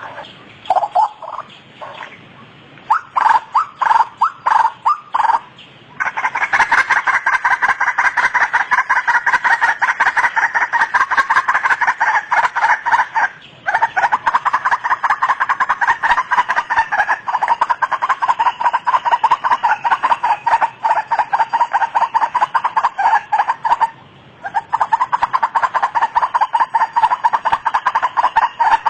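White-breasted waterhen (ruak-ruak) calling: a few scattered notes, then from about six seconds in a long run of fast, repeated calls, broken by two short pauses.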